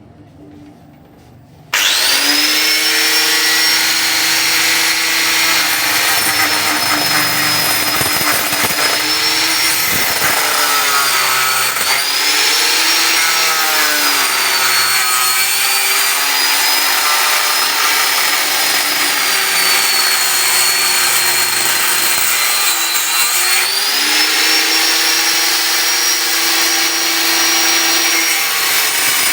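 Angle grinder switched on about two seconds in, cutting into the metal casing of a water heater. Its high whine sags in pitch several times as the disc bites under load, then climbs back.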